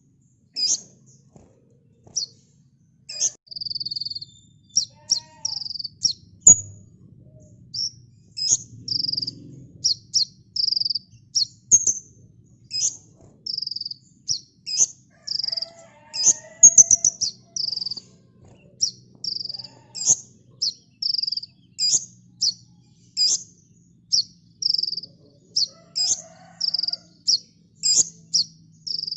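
A sunbird of the kind kept in Indonesia as 'kolibri ninja' singing a dense run of short, high chirps, about two a second, kept up without pause.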